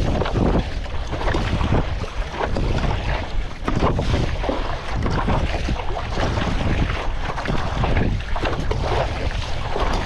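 Strong wind buffeting the microphone over a choppy sea, with water splashing. It comes in uneven gusts.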